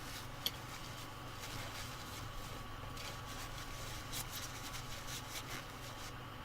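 A steady low electrical hum with a thin high whine, as from bench equipment running. One sharp click comes about half a second in, and a run of small clicks and scrapes follows in the second half, like small tools or parts being handled.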